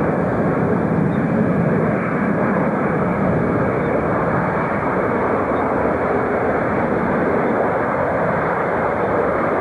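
Jet airliner engines running as a steady, even roar.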